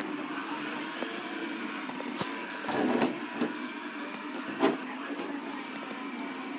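Shark vacuum cleaner running steadily, with a few knocks and bumps over its hum, the sharpest about two-thirds of the way in.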